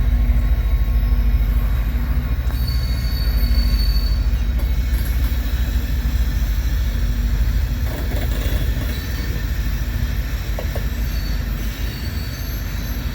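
Loaded coal train pulling out of the yard: a heavy, steady low rumble of diesel locomotives and rolling coal hopper cars, with brief high-pitched wheel squeals about three and four and a half seconds in.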